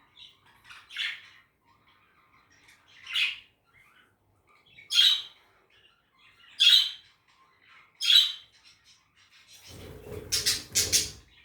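Budgerigar giving loud, short squawking calls, five of them about every one and a half to two seconds. Near the end comes a brief noisy clatter with a low rumble under quick, sharp calls.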